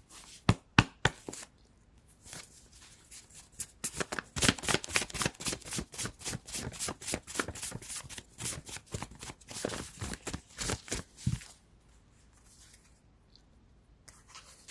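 Tarot cards being shuffled by hand: a few sharp snaps at first, then a long run of rapid card clicks lasting about seven seconds that stops a few seconds before the end.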